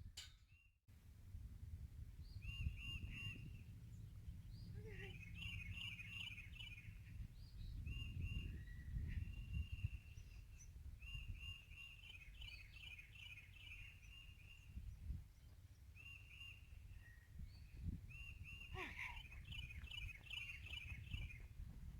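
Songbirds chirping and singing in short trilled phrases, over and over, faint, over a low rumble.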